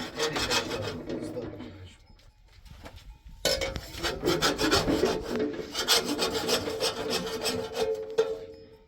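Rapid rhythmic scraping or rasping strokes, about five or six a second, in two runs with a pause of about a second and a half between them.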